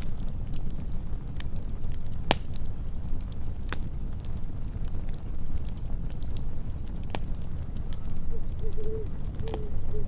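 Campfire burning with a steady low rumble and occasional sharp crackles and pops a second or more apart. Crickets chirp in an even rhythm about once a second.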